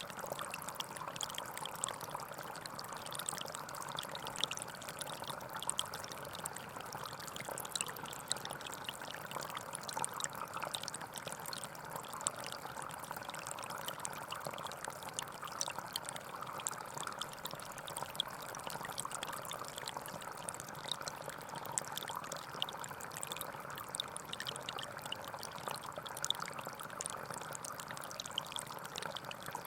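Gentle forest stream flowing steadily, with a constant babble and many small splashing ticks of water over stones.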